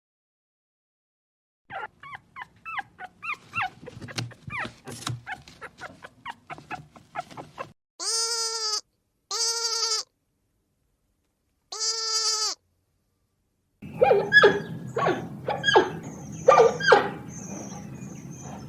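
Animal calls in three parts: a quick run of short, high yips, then three identical drawn-out calls with a steady pitch, then louder, irregular barking-like calls over a low hum.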